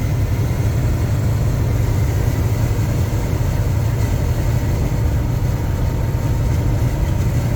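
Semi-truck driving at highway speed, heard from inside the cab: a steady low engine and road rumble that does not change.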